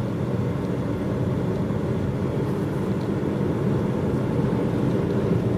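Steady road and engine noise of a car driving, heard from inside the cabin: an even low rumble with no change in pace.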